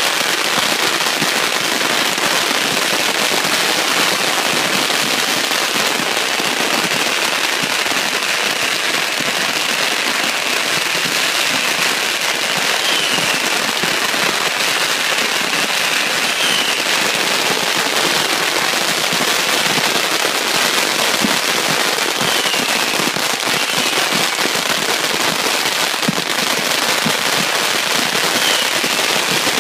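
Firecrackers going off in a dense, continuous crackle of rapid pops with no break, and a few short whistles cutting through now and then.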